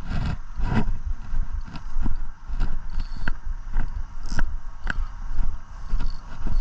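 A series of sharp, irregular clicks and knocks, about one or two a second, over a steady low rumble.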